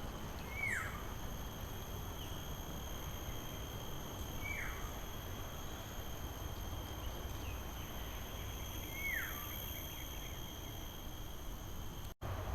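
A bird calls three times, each call a short whistle falling in pitch, about four and a half seconds apart, over a steady hiss with a thin high-pitched drone. The sound cuts out for a moment near the end.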